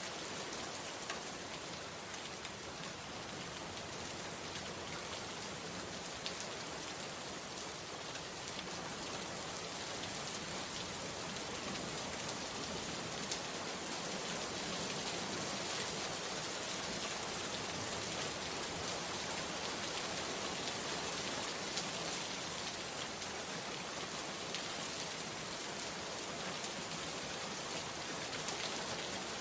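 Steady rain falling: an even hiss with scattered single drops ticking, growing a little louder about a third of the way in.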